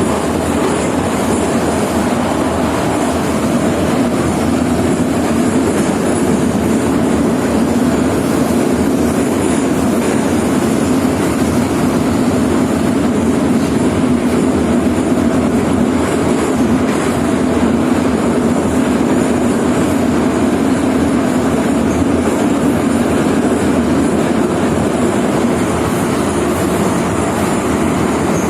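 Moscow metro 81-717.5/714.5 electric train in motion, making a steady running noise of wheels on rails that holds even throughout.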